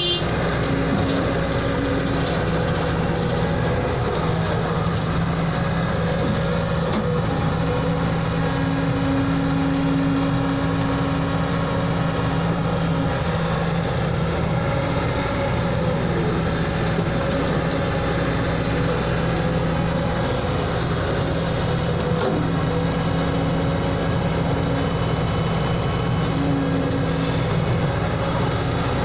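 Heavy diesel machinery engine running steadily, a constant low hum with a higher tone that comes and goes at times.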